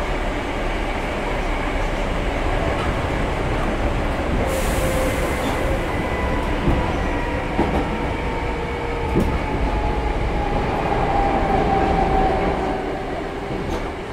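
Hankyu 6300 series electric train running between stations, heard from inside the car: a steady rumble with a faint whine that slowly falls in pitch, a few sharp clicks in the middle, and a short hiss about four and a half seconds in. The sound eases a little near the end.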